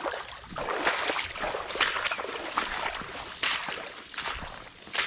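Boots walking over wet, swampy ground, with a noisy step a little more often than once a second.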